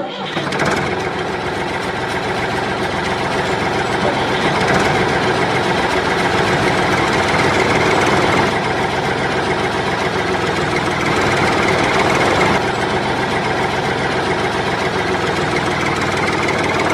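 A small engine running steadily with a rapid, even knocking beat, its pitch shifting slightly a couple of times.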